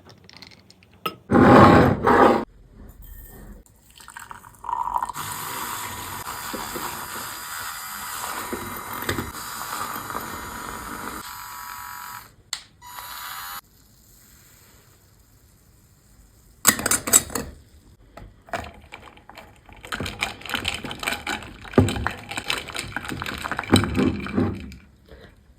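Drink-making sounds: two short loud knocks, then liquid pouring steadily for about six seconds, then irregular clatter near the end.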